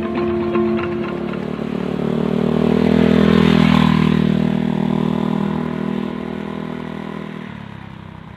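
A motor vehicle, likely a motorcycle, passing by: it grows louder to a peak about three and a half seconds in, then fades away.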